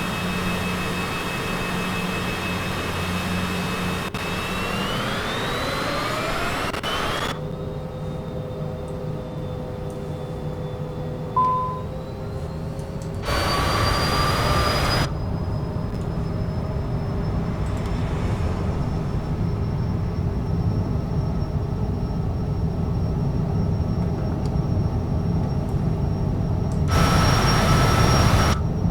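Cessna Citation CJ4's twin Williams FJ44 turbofans running for takeoff: a steady whine whose pitch rises about five seconds in as the engines spool up. A short beep sounds near the middle, and there are two brief bursts of hiss.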